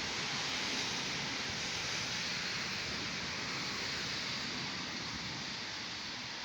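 Steady, even hiss of heavy rain falling during a thunderstorm, with no thunderclap in this stretch.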